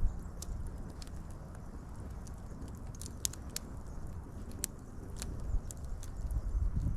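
Wood fire crackling: scattered, irregular sharp pops over a steady low rushing noise of burning.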